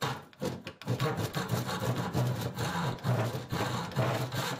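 A power saw cutting into wood, starting about a second in after a few short knocks and then running on continuously with a pulsing, rasping sound.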